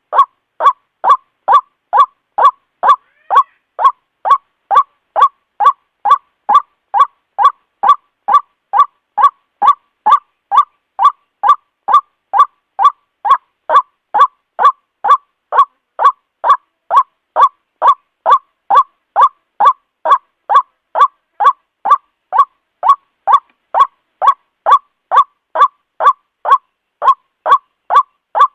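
White-breasted waterhen (ruak-ruak) giving its harsh, honking call over and over in a fast, even rhythm, about two and a half calls a second.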